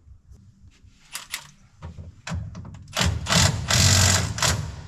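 A power tool rattling in short bursts, with a few sharp clicks before and one loud burst of about a second and a half near the end, as the new pulley is fastened on a combine.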